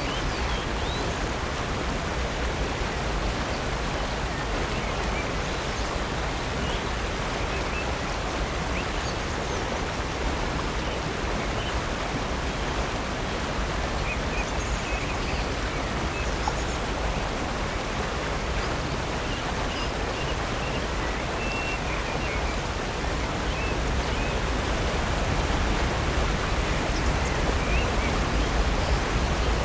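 Steady rush of water at Upper North Falls on Silver Creek, with faint bird chirps scattered through it; the water grows a little louder near the end.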